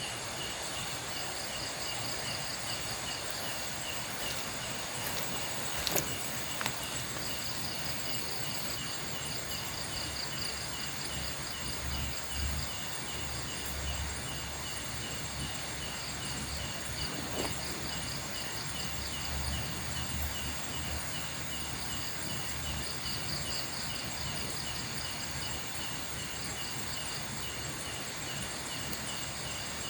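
Chorus of insects trilling steadily at several pitches, some of them pulsing, with a few faint sharp snaps near six seconds and again around seventeen seconds.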